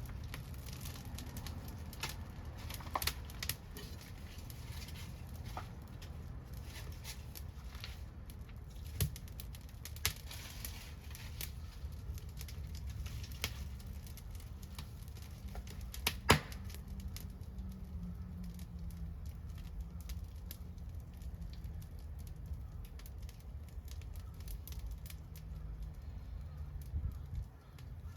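Wood fire crackling, with scattered sharp pops over a steady low rumble; the loudest single pop comes about sixteen seconds in.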